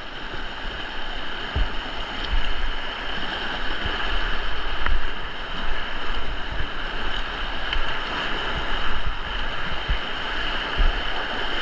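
Steady rush of whitewater from a river rapid, with wind buffeting the microphone in occasional low thumps.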